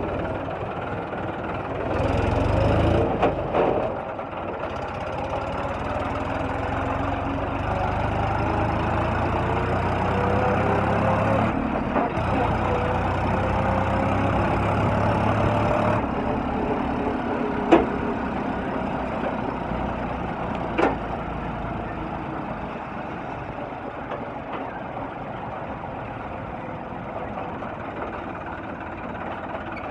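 Tractor engine running and revving, its pitch climbing slowly, then dropping back to a quieter run about halfway through; two sharp knocks follow a few seconds later.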